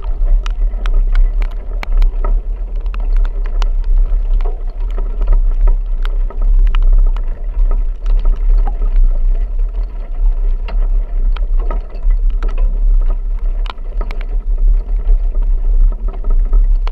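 Heavy rain pelting a vehicle, a dense scatter of sharp drop ticks over a loud, steady low rumble of the vehicle on the move.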